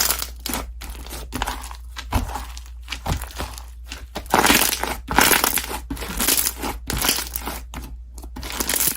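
Slime being squished and pressed by hand, giving irregular crackling and popping, louder for about a second midway.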